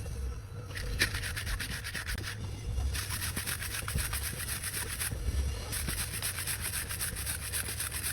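Rapid back-and-forth scrubbing, like sanding, on a clutch plate during its restoration. It comes in spells of fast strokes with brief pauses near the start, about three seconds in, and about five seconds in.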